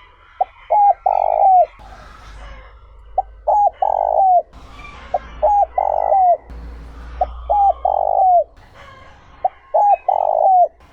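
Spotted dove cooing its song five times, about every two seconds. Each phrase is a short coo, a quick double coo, then a longer coo that drops in pitch at the end.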